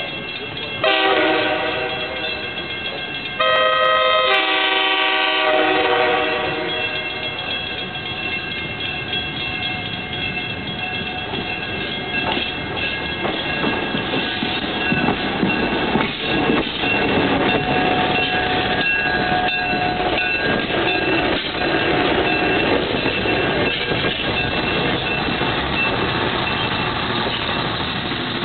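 Budd RDC Dayliner rail diesel car sounding its horn in two long blasts, then approaching and rolling past close by, its diesel engines running and its wheels clicking over the rail joints.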